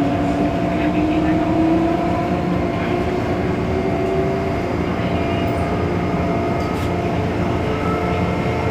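MTR M-Train electric multiple unit running, heard from inside the carriage: steady wheel and track rumble with a traction motor whine that rises in pitch over the first few seconds as the train picks up speed, then holds steady.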